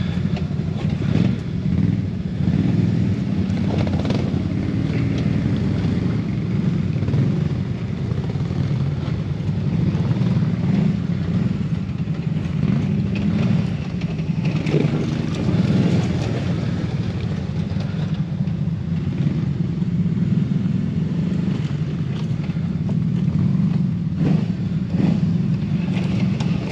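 ATV engine running steadily at low revs as the quad moves slowly over rough trail, with a few short knocks along the way.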